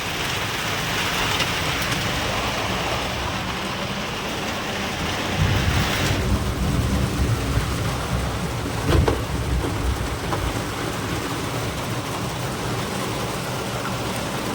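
Heavy rain pouring steadily in a thunderstorm. A low rumble comes in about five seconds in, and there is one sharp thump about nine seconds in.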